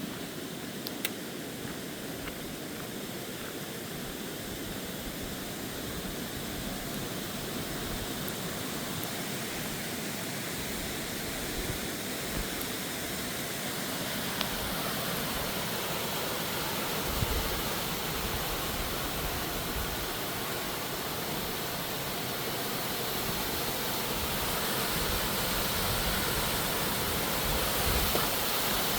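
Steady rushing of a mountain stream or waterfall, growing gradually louder.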